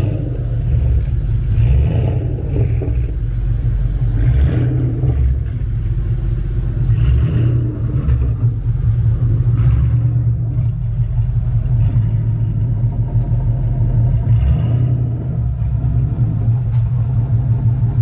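A car engine running loudly close by, a deep steady exhaust rumble with brief louder moments now and then.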